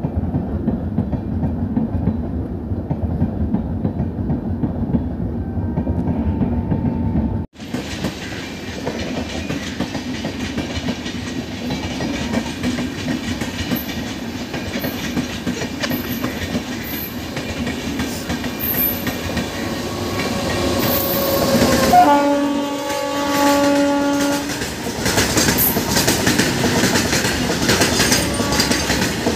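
Express passenger coaches rush past with steady rail clatter, which cuts off abruptly about seven and a half seconds in. Train noise then builds again, and an electric locomotive's horn sounds for about two and a half seconds. Covered BCNA freight wagons then roll past with clickety-clack of the wheels over rail joints.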